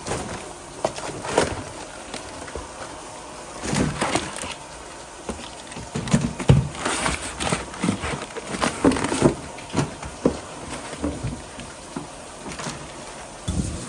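Kitchen clatter: irregular knocks and clanks of cooking utensils and cookware, over a steady background hum.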